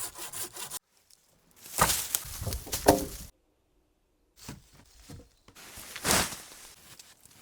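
Hand-tool work sounds in short bursts, rasping strokes and knocks, broken by abrupt dead silences between them.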